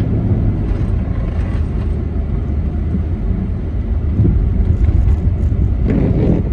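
2009 Jeep Commander's 5.7 Hemi V8 running hard under throttle in snow, a steady loud low rumble mixed with tyre and road noise.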